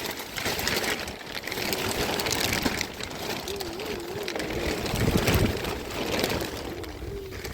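Large plastic sheet rustling and crackling as it is handled in wind and rain. A thin wavering tone holds through most of it.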